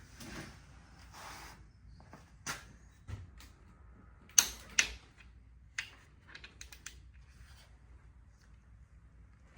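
Scattered sharp clicks and light knocks of engine parts and hand tools being handled during engine assembly, the loudest pair about four and a half seconds in, then a run of small ticks about two seconds later.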